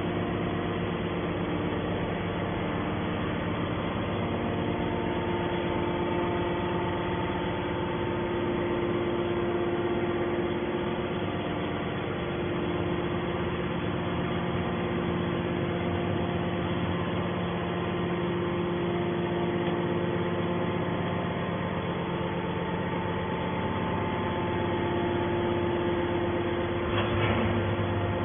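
Hydraulic power unit of a Y81T-1600 scrap metal baler running steadily: an even mechanical drone with several steady hum tones. A brief knock comes about a second before the end.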